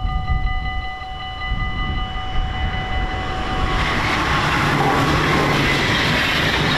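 Level crossing bells ringing steadily, then a train passing over the crossing from about four seconds in: a loud rush of wheels on the rails that covers the bells.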